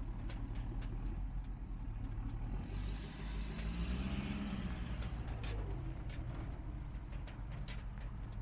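Truck engine idling steadily with a low hum and scattered light ticks. From about three to five seconds in, a vehicle passes by: a swell of tyre and engine noise that rises and then fades.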